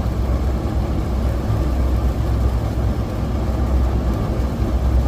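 Steady low rumble of a motor vehicle, engine and road noise, with no distinct events.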